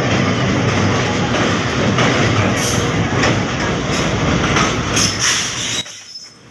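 GEU-40 diesel-electric locomotive running as it hauls the Hazara Express into the platform, its engine hum under loud wheel and rail noise with a few high squeaks. The sound drops off suddenly near the end.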